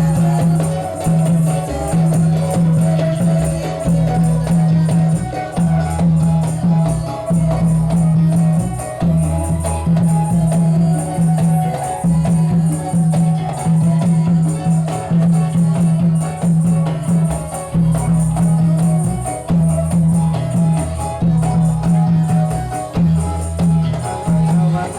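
Ndolalak troupe music: a steady, even percussion rhythm with a repeating low drum or bass note, rattling jingles like a tambourine, and a melody over them.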